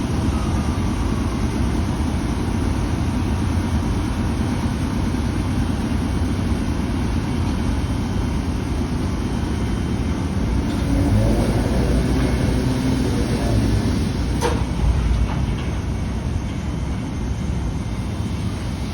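Chichibu Railway electric train running with a steady low rumble. A few steady hum tones swell about 11 seconds in, and there is one sharp click near 14 and a half seconds.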